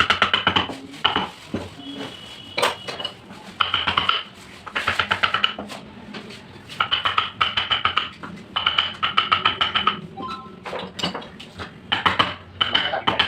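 Rapid metallic tapping, a carving chisel struck again and again with a hammer, in bursts of about a second separated by short pauses. Each tap rings briefly.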